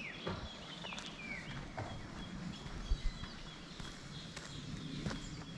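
Footsteps on an outdoor path, with a bird giving short whistled calls that fall in pitch, about one a second over the first two seconds, above a steady high buzz of insects or birds. A louder thump comes about three seconds in.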